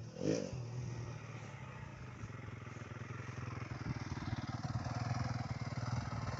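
Youth motocross bike engine running on the track, a steady buzzing note that grows louder from about four seconds in.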